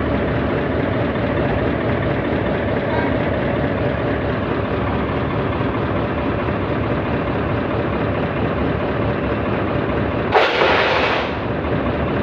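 Heavy diesel engine running steadily, with a short burst of hissing about ten seconds in.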